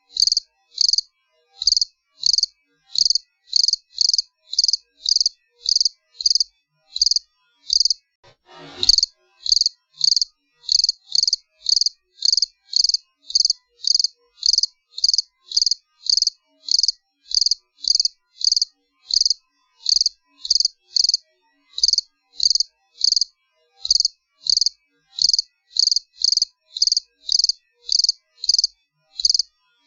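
A cricket chirping steadily in short, evenly spaced high-pitched chirps, about three every two seconds. About nine seconds in, a brief sweep falls quickly from high to very low pitch.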